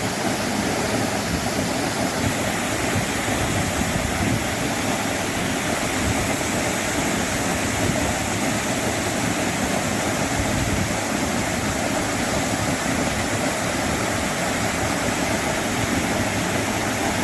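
Steady rush of a waterfall about 100 feet tall falling into its plunge pool, running full after recent flooding.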